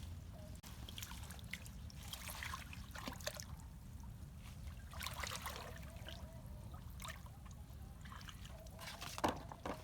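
Water trickling and splashing in a few short bursts, as of water being scooped or stirred by hand, over a low steady rumble.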